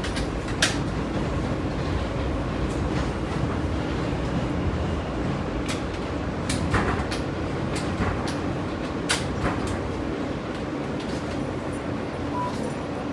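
New York City subway train heard from inside the car while running on the track: a steady rumble with irregular sharp clicks from the wheels on the rails, easing slightly near the end.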